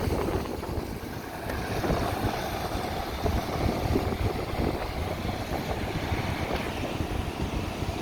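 Road traffic running past, a steady vehicle rumble, with wind buffeting the microphone.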